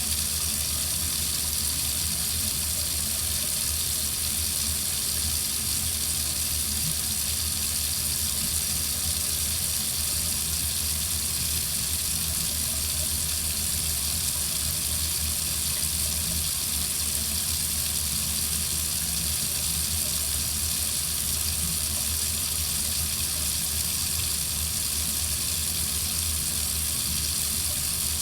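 Water running steadily from a tap into a sink, an even, unbroken hiss of flowing water.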